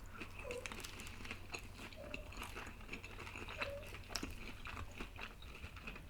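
Quiet eating sounds: chewing with scattered small clicks and taps of food and utensils.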